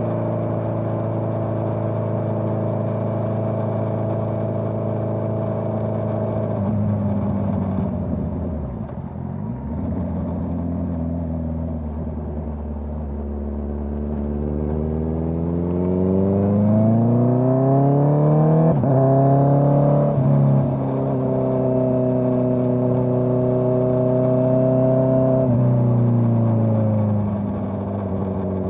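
Honda CBR650R's inline-four engine through a Dominator GP full-system exhaust, running on the road. It holds steady, drops off about seven seconds in, then climbs in revs from about halfway, with two quick breaks in pitch where it shifts gear, holds steady, and falls away again when the throttle closes near the end.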